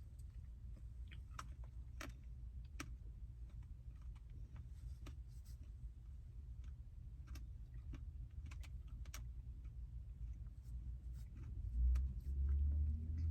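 Quiet eating sounds: scattered small clicks and taps over a low steady hum, with a louder low rumble coming in near the end.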